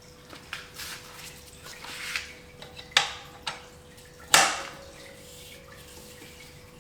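Metal tools and bicycle parts clinking and clanking as they are handled, with two sharper ringing clanks about three and four and a half seconds in. A faint steady hum runs underneath.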